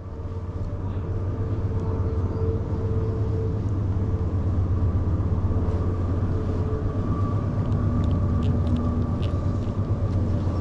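A passing train's low, steady rumble, swelling over the first couple of seconds and then holding, with faint steady hums above it.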